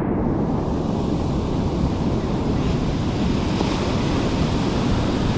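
Wind buffeting the microphone over a steady wash of surf, a dense low rumble with a faint hiss above it.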